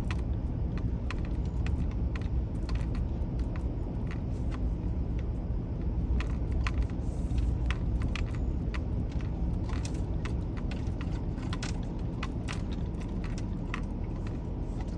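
Low, steady rumble of a pickup truck heard from inside its cab as it idles or creeps forward, with scattered light clicks and rattles throughout.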